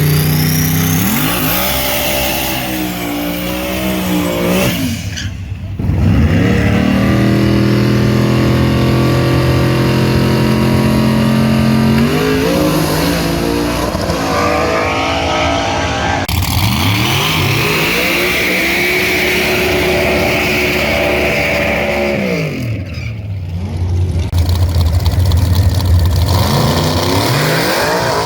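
Pickup truck engines at full throttle on a drag strip, the pitch climbing and dropping again and again as they rev and shift, with two brief breaks between runs.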